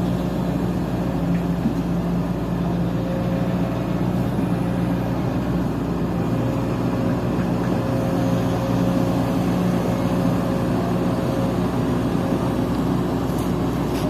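Sumitomo excavator's diesel engine running steadily, with a thin steady whine above the low engine note.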